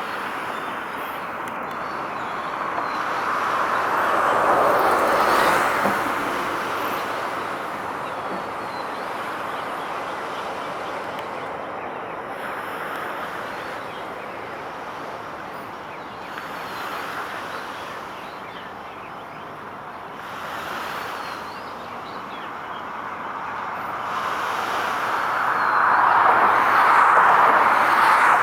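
Traffic noise with passing vehicles: a steady hiss that swells as one vehicle passes about four to six seconds in, and swells again as another approaches near the end.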